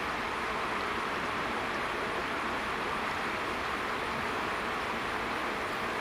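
Steady, even rushing of flowing river water, with no distinct events.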